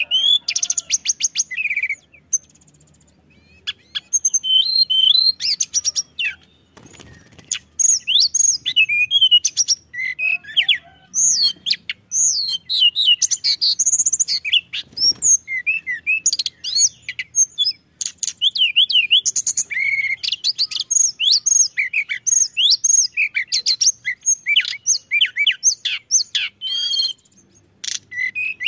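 A tledekan gunung songbird singing a loud, rapid, varied song of high whistled sweeps, chirps and rattling trills, in phrases broken by a couple of short pauses.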